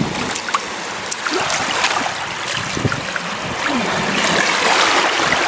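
Shallow surf washing up the beach, the water trickling and fizzing with many small clicks.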